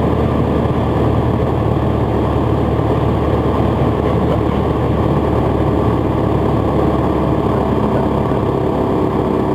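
Piper PA-28 Warrior's four-cylinder Lycoming engine running steadily at low power through the touchdown and landing roll, a constant low drone.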